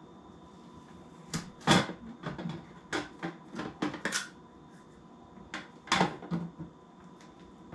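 Hard plastic parts of an ultrasonic humidifier being handled and opened: a run of clicks and knocks, the loudest about two seconds in and again about six seconds in.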